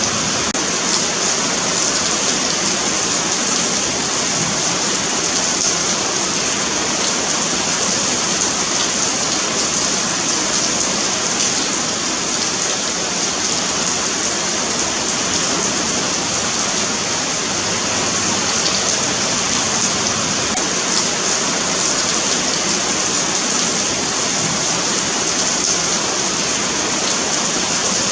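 Steady rain falling on a sidewalk, an even continuous hiss of drops hitting the pavement.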